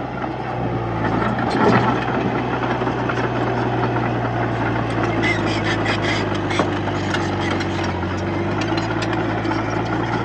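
Komatsu D31-P bulldozer's diesel engine running steadily at work, with a brief swell about two seconds in and a run of rattling metallic clanks in the middle.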